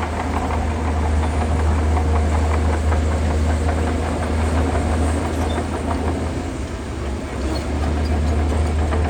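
Shantui DH17C2 crawler bulldozer's diesel engine running steadily with a deep drone, over a rapid clanking rattle from its steel tracks that eases off after about six seconds.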